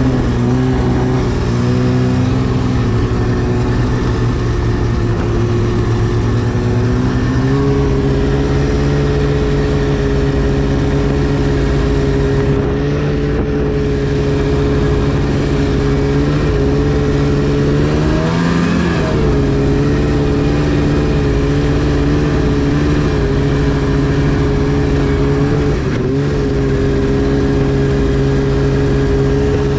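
2010 Arctic Cat CFR 1000 snowmobile's two-stroke twin engine running at a steady riding speed. Its pitch steps up slightly about a quarter of the way in, and it revs up briefly and drops back about two-thirds of the way through.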